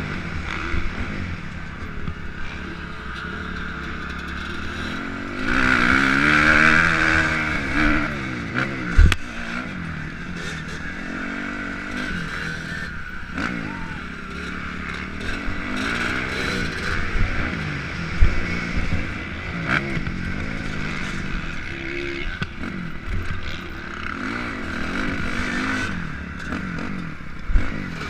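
Motocross dirt bike engine revving up and down, its pitch rising and falling again and again as the throttle opens and closes, with wind noise and a few sharp knocks.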